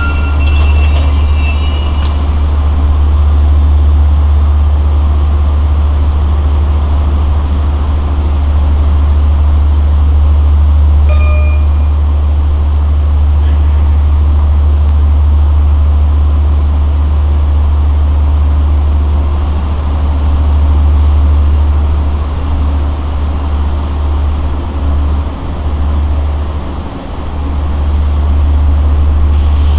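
Long Island Rail Road train with DM30AC dual-mode diesel locomotives running at the station, a loud steady low rumble throughout. A short beep sounds about eleven seconds in.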